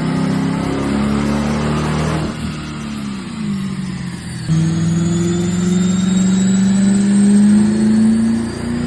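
A 2014 Caprice's V8, fitted with an LS3 camshaft, cold air intake and muffler delete, pulling hard under load. About two seconds in it drops off and the pitch falls. About four and a half seconds in it comes back on suddenly and pulls again, rising slowly in pitch.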